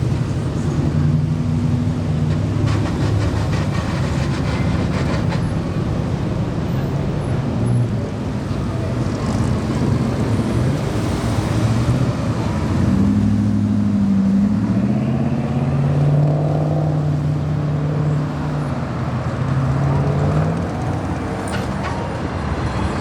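Car engines running at low speed as cars cruise past, with a steady low engine note that rises and falls several times in the second half.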